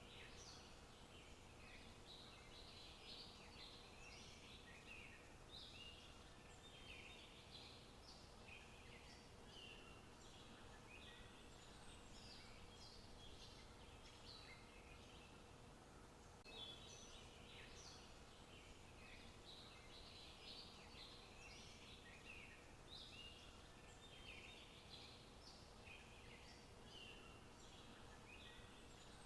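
Faint chorus of birds chirping, with many short calls overlapping without a break, over a low steady background hiss.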